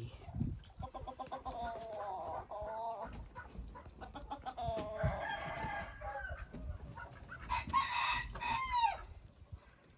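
Roosters crowing: three long, pitched crows in a row, the last one falling away at the end.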